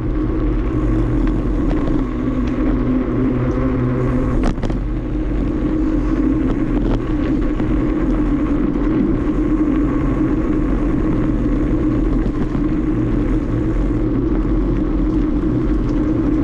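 Steady rumbling noise of a bicycle ride on a trail, the wind and tyre noise loud on the microphone, with a sharp knock about four and a half seconds in.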